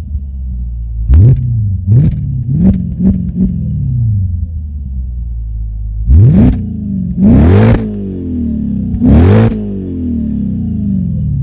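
Audi S4's 4.2-litre V8 through a Milltek aftermarket exhaust, revved at a standstill: five short throttle blips in quick succession, then three longer, higher revs, each dropping back to idle.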